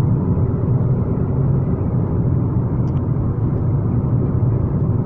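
Steady low rumble of a car in motion, road and engine noise as heard from inside the cabin.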